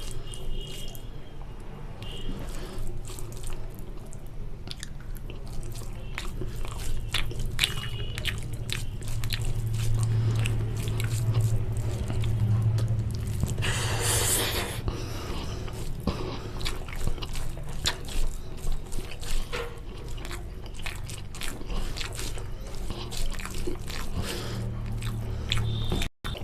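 Close-up eating sounds of a person eating chicken curry with rice: wet chewing, biting and lip smacks, with many small sharp mouth clicks and one short noisy burst about halfway through. A steady low hum runs underneath.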